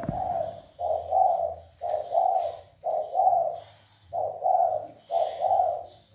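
Spotted dove cooing rapidly: a steady run of short, two-part coos, about one a second. This is the fast 'gù' cooing a male uses to call up and challenge other doves.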